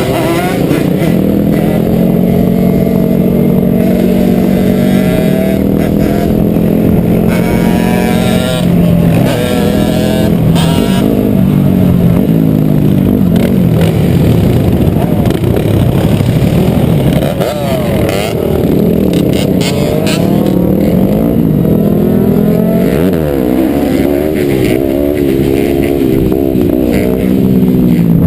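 Several dirt bike engines running and revving as the bikes ride. Their pitch rises and falls again and again, and the loudness stays steady throughout.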